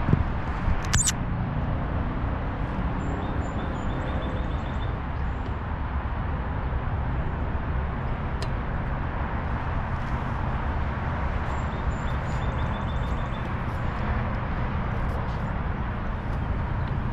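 Steady low rumble of wind noise on the microphone outdoors on a bike trail, with a sharp click about a second in. A bird gives two short runs of quick, high, repeated chirps.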